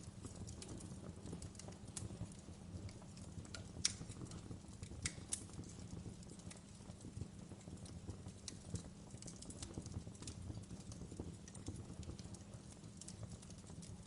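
Wood fire burning: a steady low rumble with irregular crackles and pops, the sharpest pop about four seconds in.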